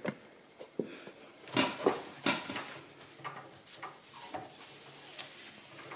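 Paper towel rubbing and scrubbing soot off the glass door of a wood-burning stove insert, in a few short quiet swishes with light knocks.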